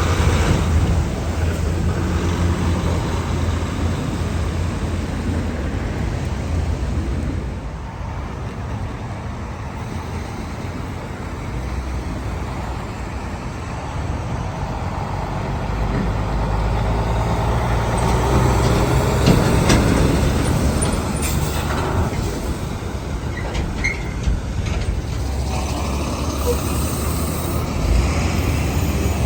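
Heavy diesel semi-trucks driving past in road traffic, engines running with a low, steady rumble that builds as a truck comes close near the middle.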